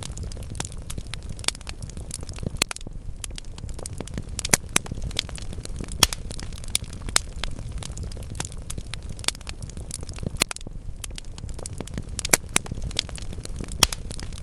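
Wood fire burning in a fireplace: burning logs crackling with frequent irregular sharp pops over a steady low rumble of the flames.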